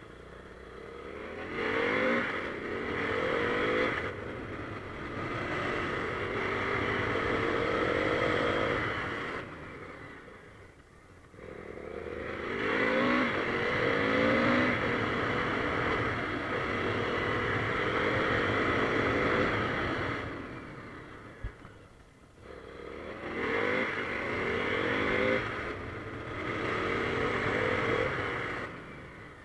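KTM Duke 390's single-cylinder engine pulling hard through the gears, its pitch rising and dropping back with each quick upshift. It does this three times, easing off in between, about ten seconds in and again about two-thirds of the way through.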